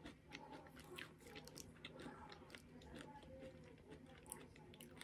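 Granola bar being chewed with the mouth closed: faint, irregular crunches.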